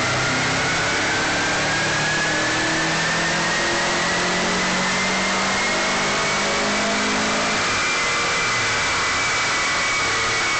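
Turbocharged flat-four of a Stage 2 Subaru WRX making a full pull on a chassis dyno: the revs climb steadily for about seven seconds, then drop away as the throttle is lifted. A high whine rises with the revs over a constant loud rush of noise.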